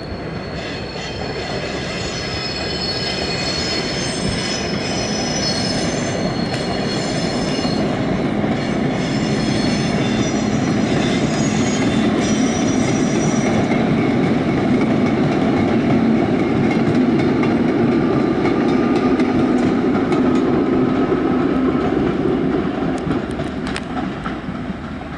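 Vintage Tait 'Red Rattler' electric suburban train passing. High steady wheel squeal for about the first half, then a louder rumble of wheels and carriages that eases off near the end.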